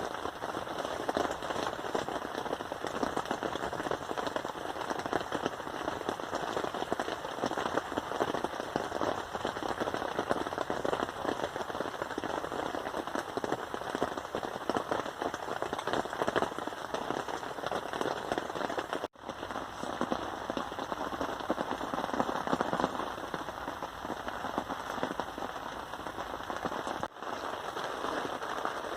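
Steady heavy rain: a dense, continuous patter of drops hitting a surface, broken by a brief gap about two-thirds of the way through.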